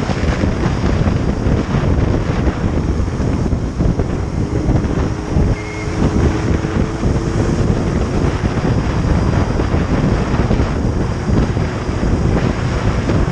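Wind rushing and buffeting over the microphone of a moving motorcycle, loud and steady. A faint low hum shows through for a few seconds in the middle.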